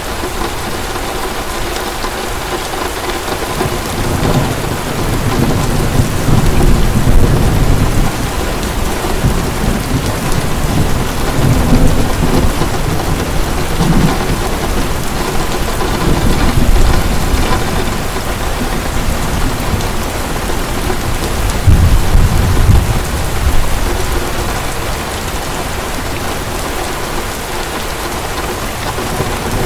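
Heavy, steady rain with rolling thunder. The thunder swells several times, loudest about 7 s, 17 s and 22 s in.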